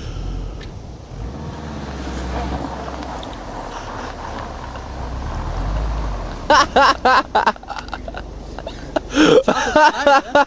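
Subaru WRX's turbocharged flat-four engine running with a low rumble that slowly gets louder for about six seconds, as the car ploughs into a snowbank. After that it drops back and people's voices take over.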